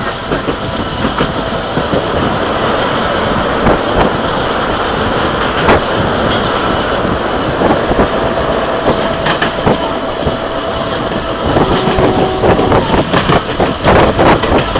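Passenger train coach running along the line, its wheels clattering over the rails under a steady rush of running noise, heard at the coach window. A faint steady whine comes and goes in the second half.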